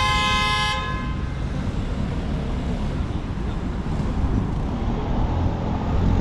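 A vehicle horn toots once, briefly, at the start, over a steady low rumble of city traffic.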